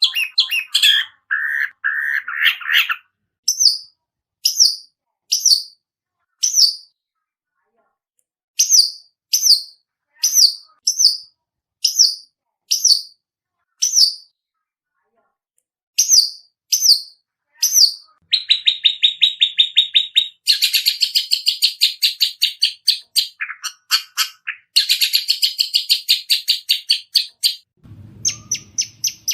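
Long-tailed shrike (cendet) calling, practising the begging calls of chicks. A short harsh chatter opens, then single sharp high chirps come about a second apart, broken by two short pauses. Past the middle the calls turn into fast, continuous chattering trills.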